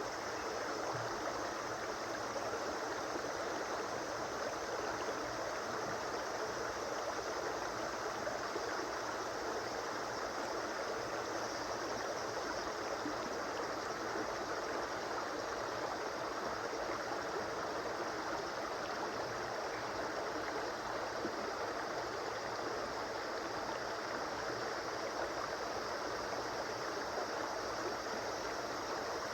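Flowing river water running steadily over stones, an even rushing with bubbling.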